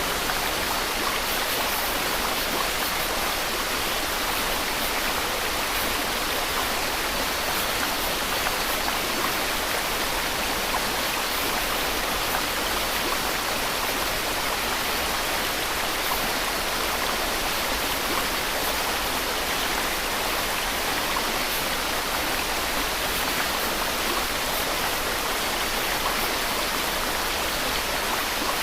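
Steady white-noise hiss, even and unchanging throughout, spread over the middle and high pitches with little bass.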